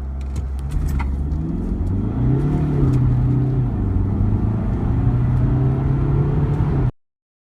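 Audi A3 8P engine under hard acceleration, its pitch climbing steadily with a gear change about three seconds in, then climbing again. The sound cuts off suddenly near the end.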